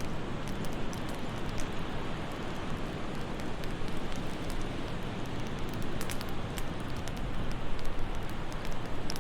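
Fireplace crackling, with scattered sharp pops over a steady rushing wind. The pops bunch up about two-thirds of the way through.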